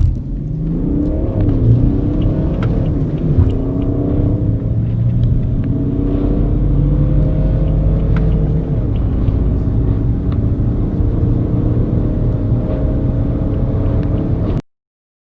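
Diesel car engine accelerating hard from a standstill to 100 km/h, running loud and steady with its pitch shifting as it pulls through the gears; it cuts off abruptly near the end.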